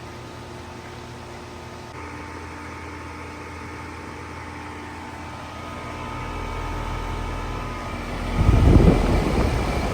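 Outdoor unit of a 2019 2-ton Comfortmaker SoftSound heat pump starting up in heat mode: a steady hum with held tones steps up about two seconds in, then swells from about six seconds in, with a loud low rush near the end.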